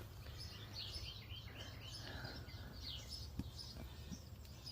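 Birds chirping and singing repeatedly, faint, over a steady low background rumble.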